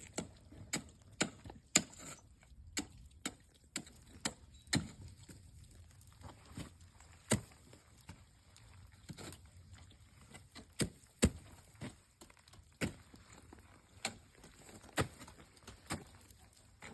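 Ice axes and crampon front points striking into ice: a string of sharp, irregular knocks and taps, one or two a second, a few of them louder.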